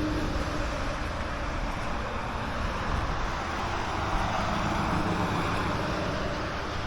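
Steady outdoor traffic noise from passing road vehicles, an even rush that swells slightly around the middle.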